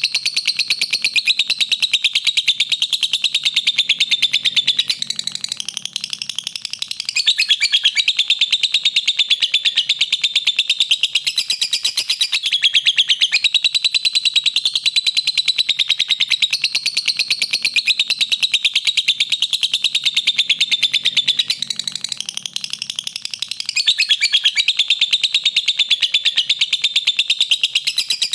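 Lovebird giving a long, unbroken, very rapid chattering trill, the continuous 'ngekek' song used as a masteran for training other lovebirds. It dips and changes briefly about five seconds in and again about twenty-two seconds in.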